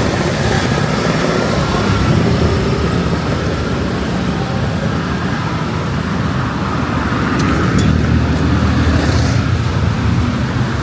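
Steady low rumble of strong wind buffeting the microphone, mixed with the sound of street traffic.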